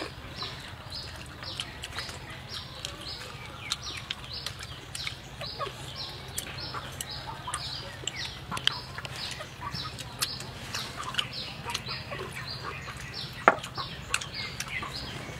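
Small birds chirping repeatedly: short, high, downward-sliding chirps about twice a second, over a steady low hum. A single sharp click near the end.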